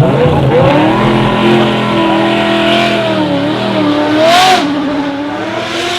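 Brabham BT62's 5.4-litre V8 revving hard as the car accelerates, its pitch rising sharply at first and then wavering. About four and a half seconds in there is a short rush of noise, and the pitch drops and then climbs slowly again.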